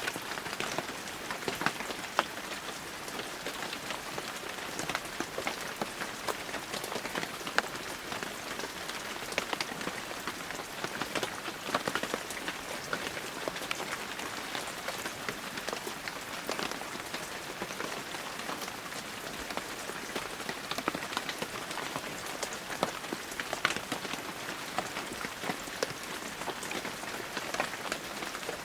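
Heavy rain falling steadily, a dense hiss of rainfall with many close, sharp drop impacts pattering on surfaces.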